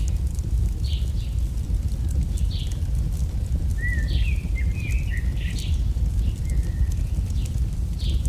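Campfire burning with a steady low rumble and scattered small crackles and pops, while small birds chirp every second or two, with a cluster of short chirps around the middle.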